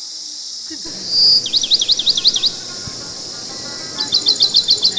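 A songbird singing two phrases. The first is a held high whistle, then about seven quick swooping notes; the second, near the end, is a faster run of about ten short notes. A steady high insect-like hiss runs underneath.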